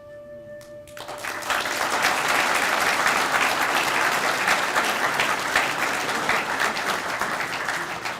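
Audience applauding, starting about a second in just as the last held note of the song dies away, and tapering off near the end.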